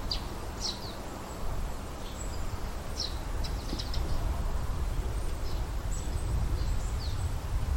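Small wild birds giving short, high chirps, several falling quickly in pitch, scattered every second or so over a steady low outdoor rumble.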